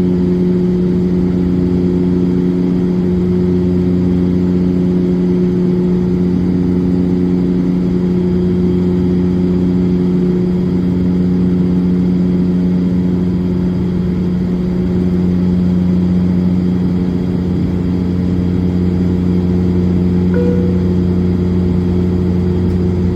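Steady drone of a De Havilland Dash 8-400's twin Pratt & Whitney PW150A turboprops heard from inside the cabin in flight: a constant low propeller hum with a slight slow beating. A short high tone sounds briefly about twenty seconds in.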